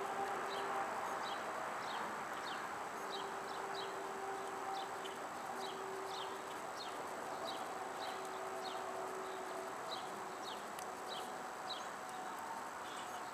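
Small birds chirping, short quick falling chirps one or two a second, over a steady outdoor hiss, with a faint hum that comes and goes.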